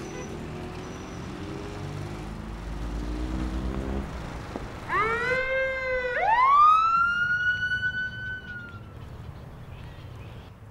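A vehicle engine runs low and steady, then a siren gives a short rising whoop and winds up into one long wail that holds high and then fades.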